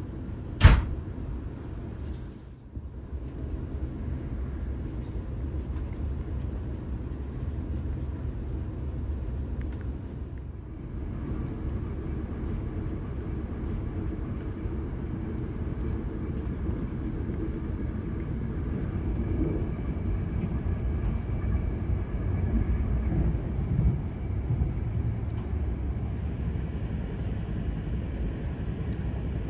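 Steady low rumble of a double-decker passenger coach running along the line, heard from inside the coach, with one sharp knock about a second in.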